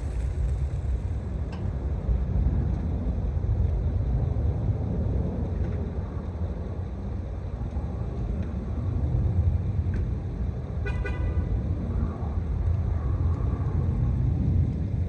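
A vehicle engine running at low speed, steady with slow swells, while backing up a loaded log trailer. A brief high-pitched tone sounds about eleven seconds in.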